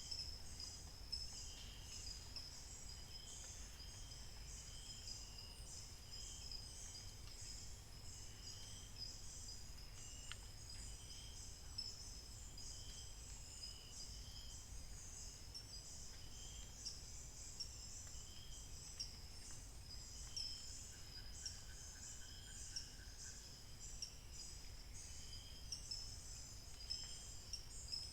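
Forest dawn chorus: a dense, steady high chirring of insects and birds, with a short call repeating about every second and a half, and a brief rapid trill about three quarters of the way through.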